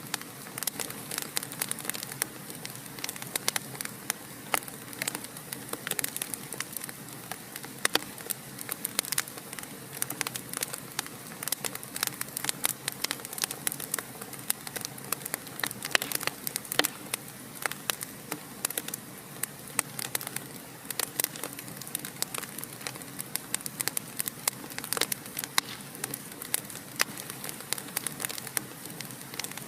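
Fire in a fireplace crackling: a steady hiss with many sharp pops and snaps, several a second, some louder than the rest.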